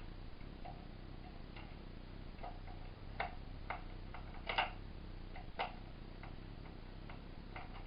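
Irregular small clicks and ticks of a screwdriver driving a case screw back into a NAS enclosure, the strongest a little past halfway.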